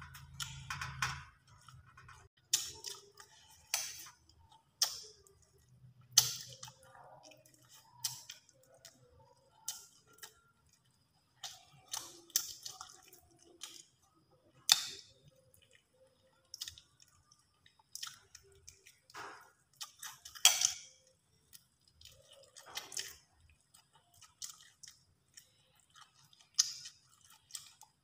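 A person chewing and eating grilled fish and rice close to the microphone: irregular wet mouth smacks and sharp chewing clicks, a second or two apart.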